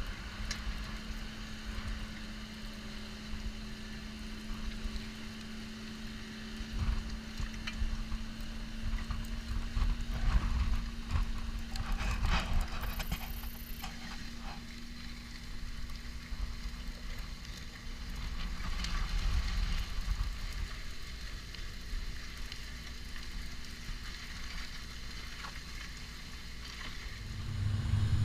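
Tractor engine running steadily, a constant hum under uneven low rumbling and hiss.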